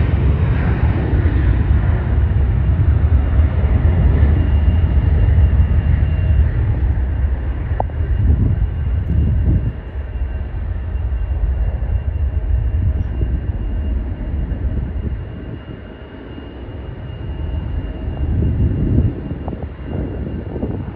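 Jet airliner engines rumbling as the plane passes, with a faint steady whine above the roar. The sound is loudest in the first half, drops off about ten seconds in, and swells briefly again near the end.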